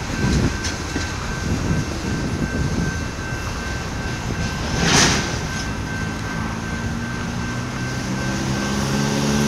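Freight train cars rolling past: a steady low rumble and clatter of wheels on rail, with a faint thin steady tone over it. A short loud burst of noise comes about five seconds in, and a low droning with several steady tones joins in the last few seconds.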